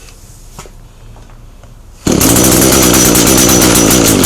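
Echo GT225 string trimmer's small two-stroke engine bursts into life about two seconds in on a cold start and runs at a high, buzzing speed.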